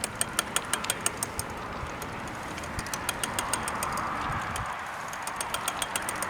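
Runs of light, sharp clicks at about six a second, three times, over a steady rushing background noise.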